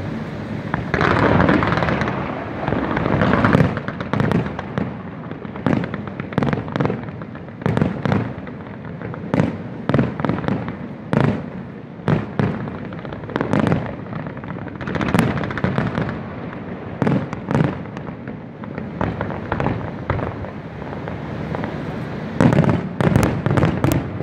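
Fireworks display: a continuous run of bangs and crackling from bursting fireworks over a rumbling background, with a quick cluster of sharp cracks near the end.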